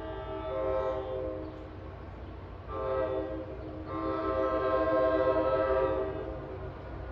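NJ Transit train's air horn sounding a chord in three blasts: a long one, a short one about three seconds in, then another long one. A low rumble runs underneath.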